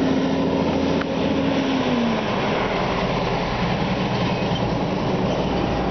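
Steady road-traffic rumble, with one vehicle's engine tone dropping in pitch and fading as it passes about two seconds in.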